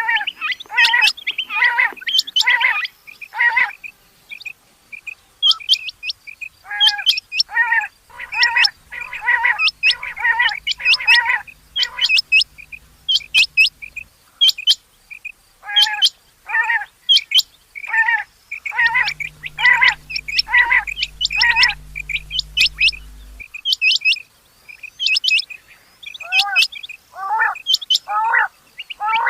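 Rain quail calling: quick runs of short, sharp chirping notes repeated in bursts, with brief pauses between the runs.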